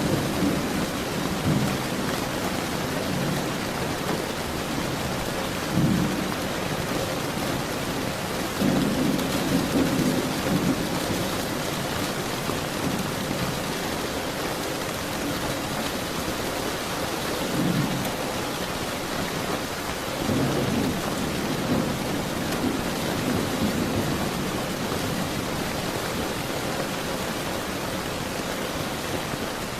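Steady rain falling, with several low rolls of thunder breaking through it at irregular intervals.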